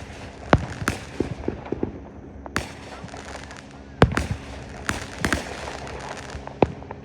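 Aerial fireworks bursting: an irregular series of sharp booms with a few smaller crackles between them, the loudest bang about four seconds in.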